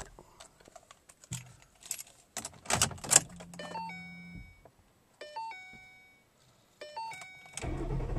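Keys jangling and clicking inside a 2011 Ford Mustang GT, then the car's warning chime three times, each a short falling series of tones. Near the end the 5.0-litre V8 starts and settles into a steady low rumble.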